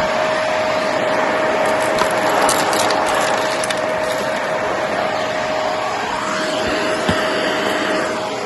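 Shark vacuum cleaner running steadily with a constant whine, picking up bits of cardboard that click and rattle through it now and then; the whine stops near the end.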